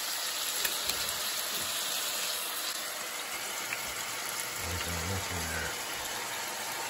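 Flounder fillets frying in butter and oil in a stainless steel skillet: a steady sizzle with scattered small pops.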